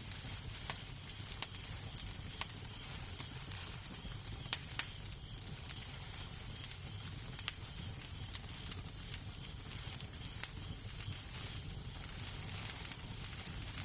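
Wood fire crackling in a fireplace: irregular sharp pops and snaps over a steady low hiss and rumble of the flames.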